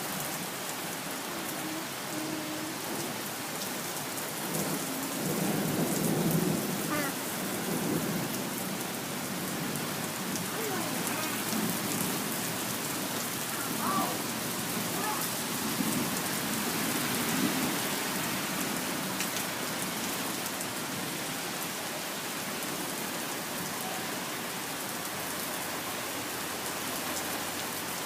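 Heavy rain pouring steadily in a downpour, with low thunder rumbling through the middle stretch.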